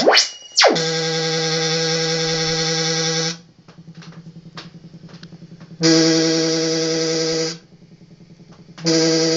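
Empty dinner plate made to screech: a loud, steady, organ-like tone. It sweeps sharply up and back down at the start, then comes as three long held notes with short quieter gaps between them.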